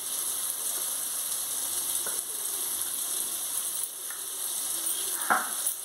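Brinjals frying in oil in a metal kadai, a steady sizzle, with a short knock about five seconds in.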